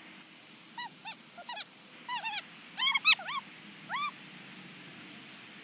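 A dog whining: about a dozen short, high-pitched whimpers that each rise and fall, coming in little clusters over the first four seconds, loudest around three seconds in.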